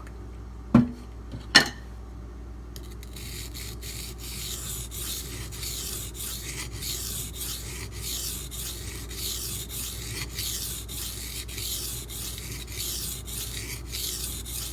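Two knocks, then a D2 steel knife blade scraped back and forth over a sharpening stone in regular strokes, a few a second, starting about three seconds in.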